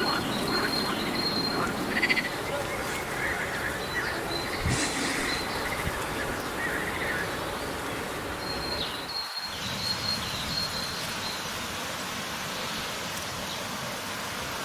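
Outdoor nature ambience: a dense, steady chorus of small animals, frogs or insects, with brief thin high chirps over it. The sound cuts out suddenly about nine seconds in and resumes as a smoother, even hiss-like drone.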